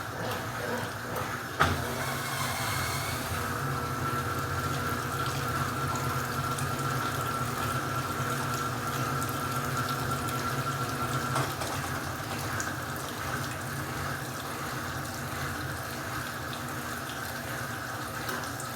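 Water running from a tap into a washing machine's tub to top up the rinse water, over the steady low hum of the machine. A sharp click comes about a second and a half in, and a faint steady whine is heard from about four to eleven seconds in.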